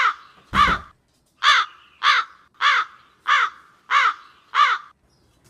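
A crow cawing in a steady series of about nine harsh calls, a little over half a second apart, that stops shortly before the end. A dull thump sounds under the second call.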